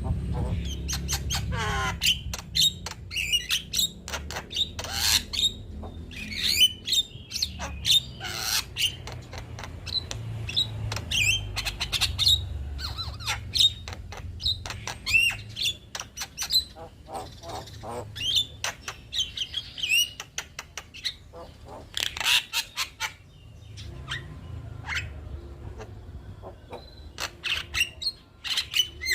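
Male Javan myna (jalak kebo) singing in full voice: a fast, varied run of clicks, squawks and sweeping whistled notes with brief pauses.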